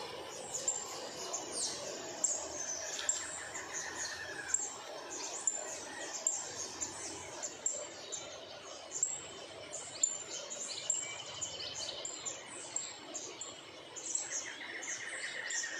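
Wild birds singing and calling: many short, high chirps throughout, with a falling trill about three seconds in and again near the end.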